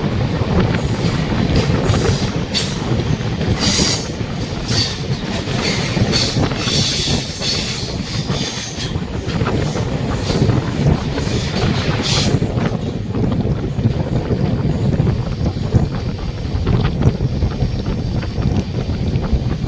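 Passenger train running on the track: a steady rumble of wheels on rail, with a run of short, high-pitched squeals and hisses in the first half that then die away.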